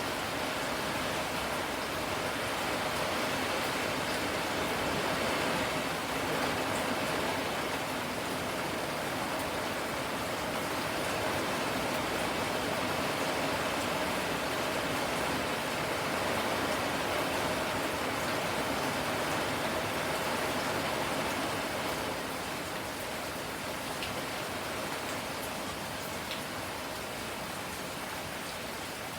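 Steady rain falling, a dense even hiss with a few faint individual drops ticking, easing slightly near the end.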